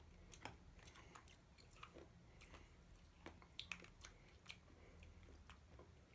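Faint chewing of hard PEZ candy tablets: irregular small crunches and clicks, a few each second.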